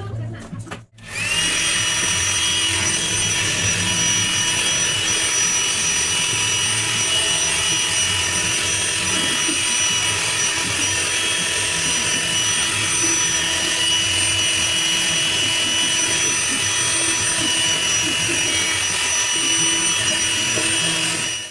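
An electric power tool motor spins up quickly and runs steadily at full speed, a dense noise with a high whine.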